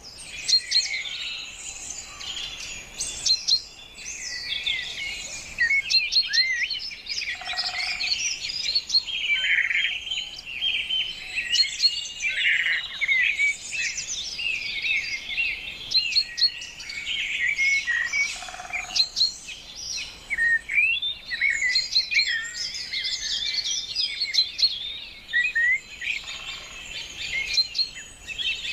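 Many songbirds chirping and singing at once in a dense, continuous dawn-chorus-like mix of quick high chirps and trills, with a couple of brief lower calls.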